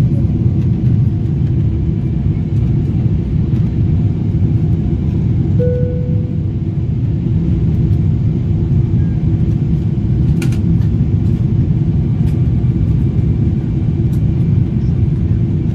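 Steady roar of a Boeing 777's GE90 engines and rushing air heard inside the cabin during a full-power climb after takeoff, with a low, even drone.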